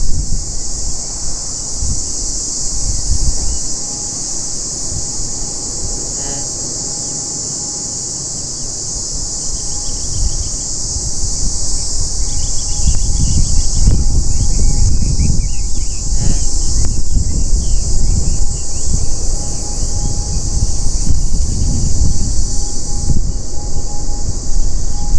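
Turboprop airliner, an ATR 72-600, on approach: its low rumble builds to loud about halfway through. It plays over a steady high insect drone, with brief bird chirps.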